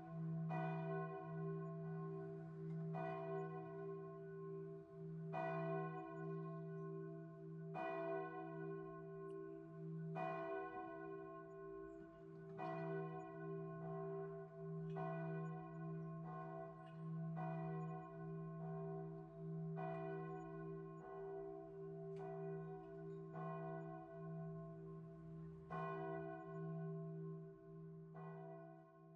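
A bell struck about every two and a half seconds, each strike ringing on over a steady low hum.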